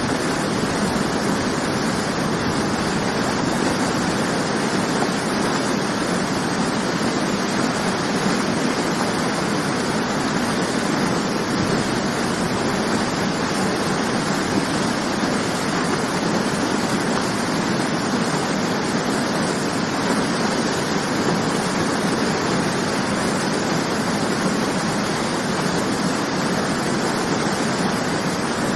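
Waterfall: a steady rush of falling water, even and unchanging throughout.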